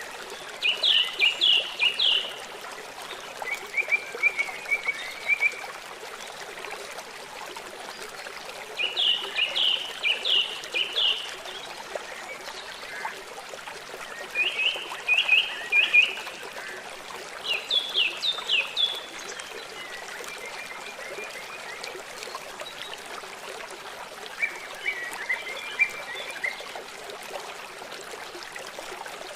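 A bird singing short phrases of quick, high, downward-sliding chirps, repeated every few seconds, over the steady trickle of running water.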